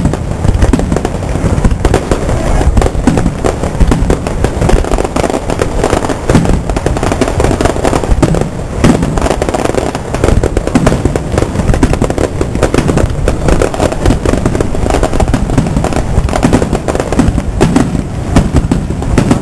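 Aerial fireworks going off in a rapid, continuous barrage: dense booms and crackles overlapping without a break.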